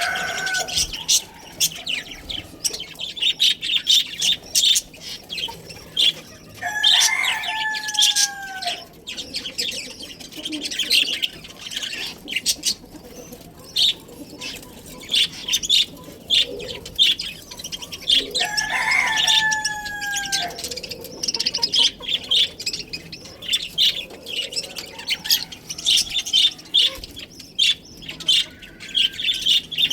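Budgerigars chattering and chirping continuously. Twice, about 7 and 19 seconds in, a rooster crows in the background: a long call of about two seconds that falls in pitch at the end.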